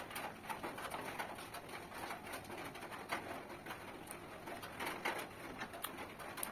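Close-miked eating: chewing and lip-smacking with the mouth closed, heard as a run of small, soft clicks.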